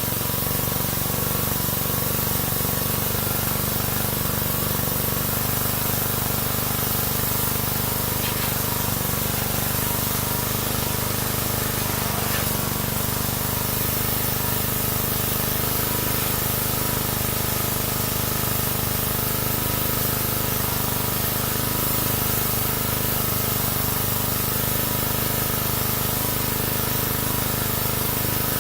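Pressure washer spraying water, a steady, unbroken hiss with a constant hum underneath.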